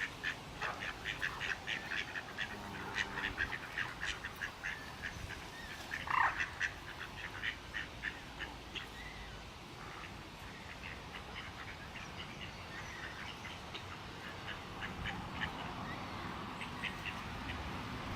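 Waterbirds calling: a busy run of short, repeated calls that thins out after about nine seconds, with one longer call about six seconds in.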